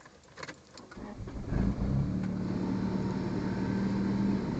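1995 Acura Integra GSR 1.8-litre DOHC VTEC four-cylinder (B18C) engine cranking and catching about a second and a half in on a second try, from a dead cold start in deep frost without a block heater. It then settles into a steady fast cold idle.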